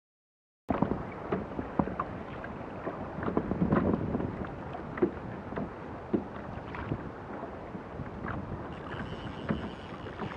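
Water lapping and splashing against a kayak hull, with wind buffeting the microphone and irregular small knocks. It cuts in about a second in.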